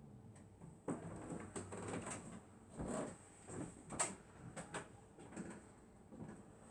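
A sleeping dog snoring and breathing noisily in irregular, uneven breaths, with a sharp click about four seconds in.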